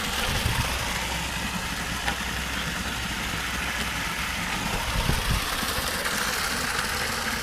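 An engine idling steadily with a low hum, with a few low thumps about half a second in and again around five seconds in.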